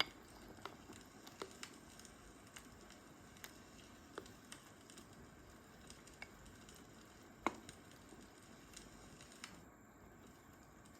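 Food sizzling faintly over a low hiss, with scattered light pops and crackles.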